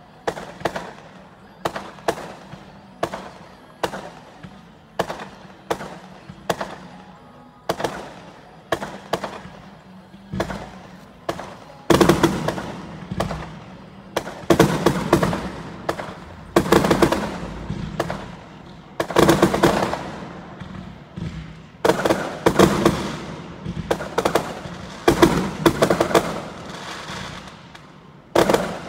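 Aerial fireworks bursting: single sharp bangs about once a second at first, then from about twelve seconds in, louder clusters of rapid crackling bangs every two to three seconds.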